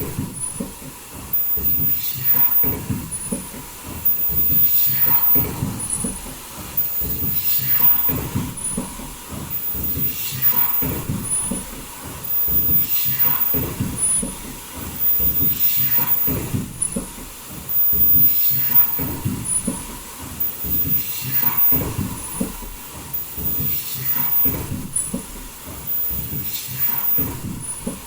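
A foldable N95 mask production line with valve welding, running. It works in a repeating cycle of about three seconds, with mechanical clatter, hissing, a falling sweep and a short high-pitched tone in each cycle.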